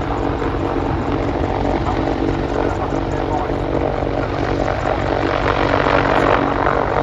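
Military display helicopter flying past, a steady turbine engine sound with the rapid beat of its rotor blades, growing a little louder about six seconds in.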